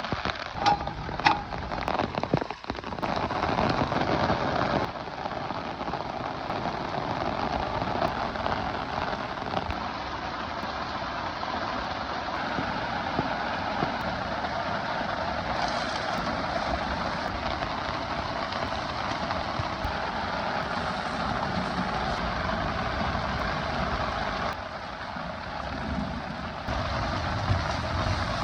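Heavy rain pouring steadily, a dense even hiss, with a few sharp knocks in the first three seconds.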